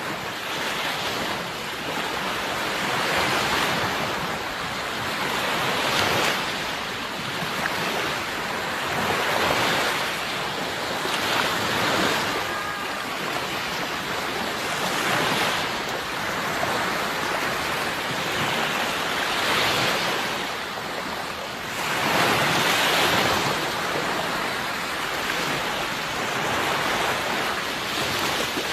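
Sea waves breaking and washing on the shore, a steady rush that swells and eases every few seconds, with the biggest swell near the end.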